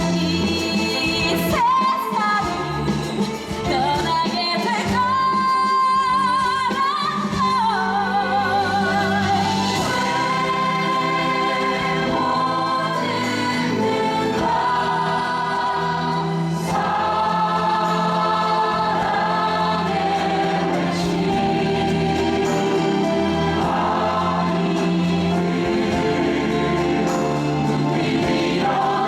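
Musical-theatre cast and chorus singing with orchestral accompaniment; the held notes carry a wide vibrato.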